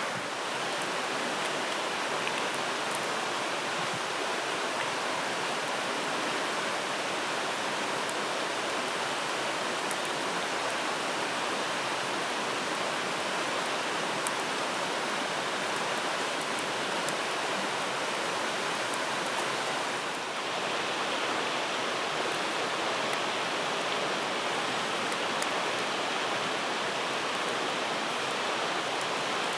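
Steady rushing of a flowing river, with a few faint ticks over it.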